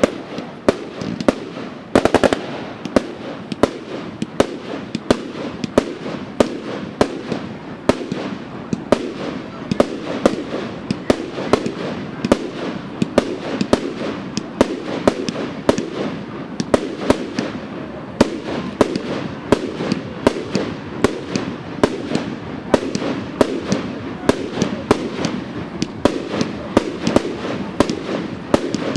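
Fireworks going off without pause: a dense run of sharp bangs and cracks, several a second, some louder than the rest.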